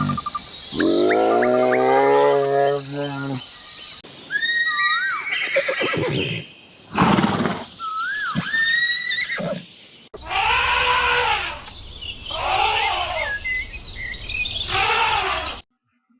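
A string of farm animal calls cut together from several clips: a long, drawn-out pitched call at the start, then gliding, whistle-like calls, then three rising-and-falling calls that end suddenly just before the end.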